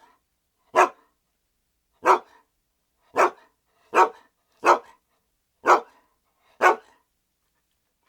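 A dog barking: a run of about eight single, short barks spaced roughly a second apart, with clean silence between them, stopping about two-thirds of the way through.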